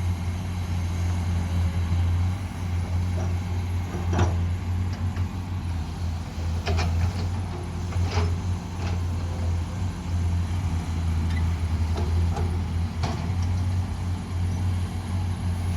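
Heavy diesel engines of an excavator and dump trucks running steadily, a low drone, with a few short sharp knocks spread through it.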